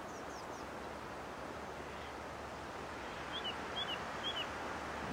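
Quiet outdoor ambience, a steady soft hiss, with a small bird chirping: a few faint chirps near the start, then three short chirps about three and a half seconds in.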